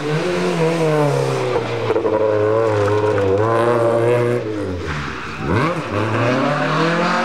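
Rally car engine at high revs under hard throttle, its pitch wavering with the throttle; about five seconds in the revs drop sharply off the throttle and then climb again.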